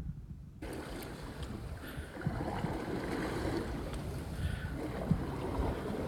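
Wind buffeting the microphone and sea water slapping against the hull of a small fishing boat, with a few small knocks. The sound cuts in about half a second in.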